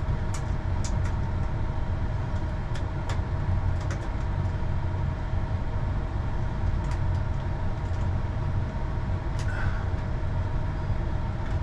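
A steady low mechanical hum from a running motor or fan, with a faint steady whine over it, and scattered light clicks and taps.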